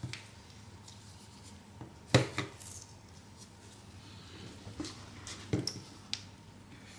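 Scattered small clicks and taps of tools and phone parts being handled on a repair bench, the loudest about two seconds in.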